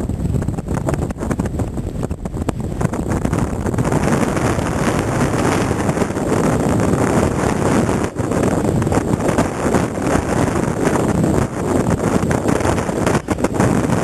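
Strong wind buffeting the microphone: a loud, rumbling, fluttering rush with no steady tone.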